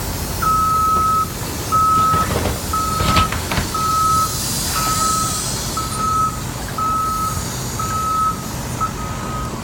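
Backup alarm on reversing heavy equipment, beeping steadily about once a second over a running engine, with a louder burst of machine noise around two to three seconds in.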